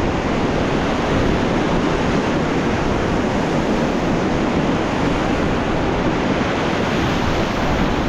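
Steady, loud rushing of a fast mountain river running high over rapids, a continuous wash of white water.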